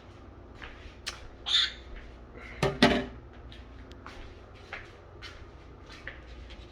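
Household handling knocks and clicks, the kind a cupboard or appliance door and dishes make, while food is fetched: scattered light clicks, with a louder double knock a little before the middle.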